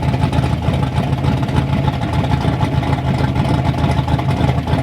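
Turbocharged Ford Ranger engine with a freshly rebuilt top end running steadily at idle, warming through its first heat cycle after its first start.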